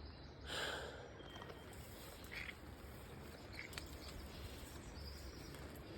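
Faint outdoor ambience with a few short, distant bird chirps and one brief soft swish of noise about half a second in.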